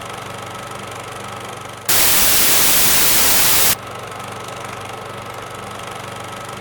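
A burst of loud white-noise static about two seconds in, starting and stopping abruptly after nearly two seconds, over a steady low hum.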